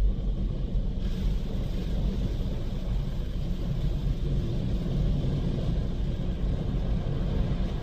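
Istobal M'Wash 3 rollover car wash working over the car, heard from inside the cabin: a steady low rumble with a hiss of water and brushes that brightens about a second in.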